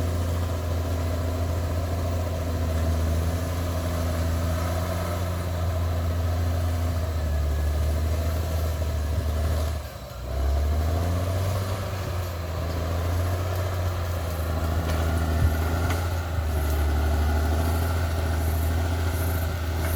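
CAT D6R XL bulldozer's diesel engine running steadily with a low drone. About halfway through it briefly drops off, then its pitch rises as it picks back up.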